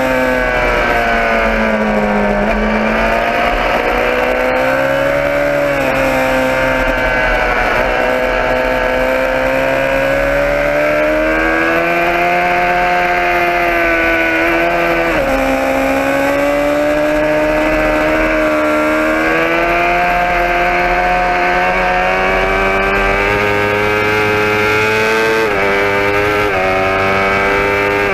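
Motorcycle engine running under way, its pitch climbing and falling with the throttle, with a sudden drop in pitch about halfway through and several quick dips near the end.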